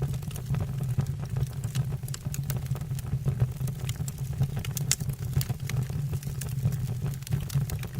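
Wood fire burning in a fireplace: a steady low roar of the flames with many sharp crackles and pops scattered throughout.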